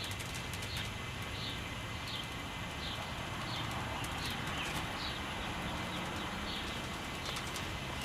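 A bird calling over and over with short, high, falling chirps, about one and a half a second, against a steady hiss of outdoor background.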